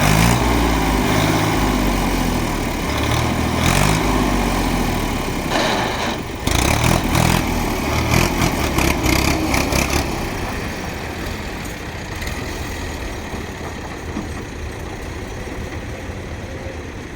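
Tractor engine revving, its pitch rising and falling repeatedly, with rough clattering in the middle, then settling to a quieter, steadier run after about ten seconds.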